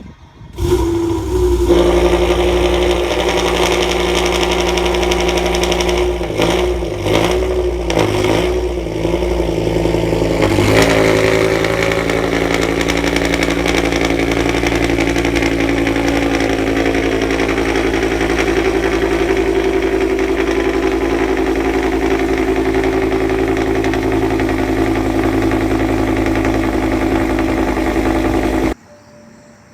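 BMW S85B50 5.0-litre V10 starting up and catching about half a second in, then running at a steady idle. Between about 6 and 11 seconds in there are a few short revs that bend the pitch; the sound then holds steady and cuts off suddenly near the end.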